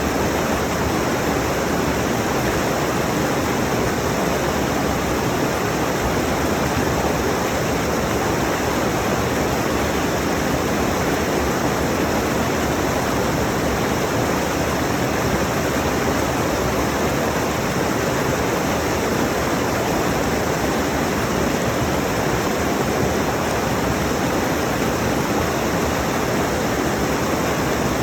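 Rushing mountain stream: a steady, even roar of water tumbling over rocks, recorded close up.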